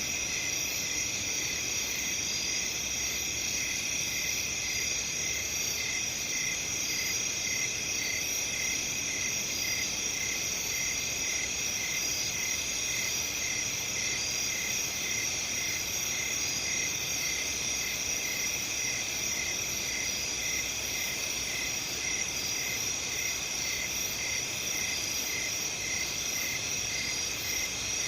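Crickets and other night insects chirping in a steady chorus of several high-pitched trills, one of them pulsing in an even, unhurried rhythm.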